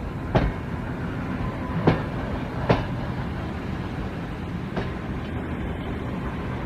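A train running on the rails: a steady low rumble broken by four sharp knocks at uneven intervals.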